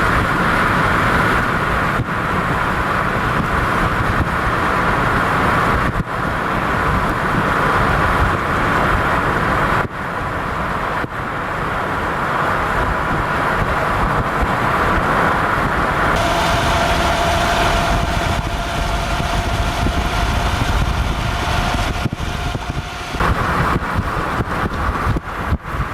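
Steady road and wind noise from a car driving in strong winds. From about sixteen seconds in, a steady tone joins for several seconds; near the end the noise turns gusty, with sharp knocks.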